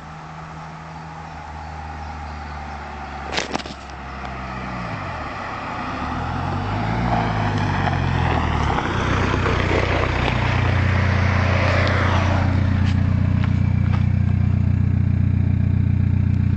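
SEAT Ibiza 1.9 TDI's four-cylinder turbodiesel running through its custom turbo-back exhaust. It grows steadily louder, shifting in pitch over the first half with a rushing hiss building, then holds loud at one steady pitch. There is a sharp click a few seconds in.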